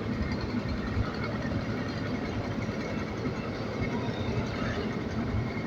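An engine running steadily, an even low drone with a faint steady hum.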